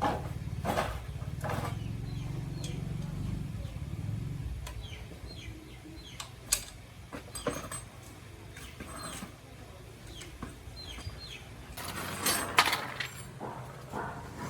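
Small motorbike engine running at idle, its low hum fading out about four seconds in. Scattered short clicks and chirps follow, the loudest cluster near the end.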